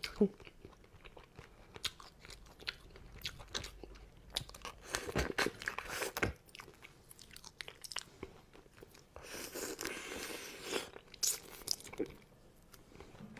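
Close-miked eating of crab: irregular crunches and clicks of shell being bitten and cracked, with chewing, and a longer noisy stretch about nine seconds in.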